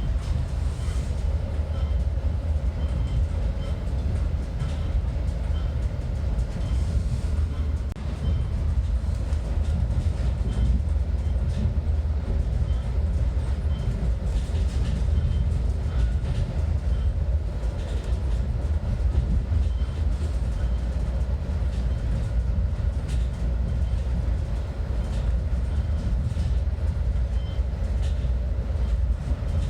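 Metra commuter train running on the rails, a steady low rumble throughout.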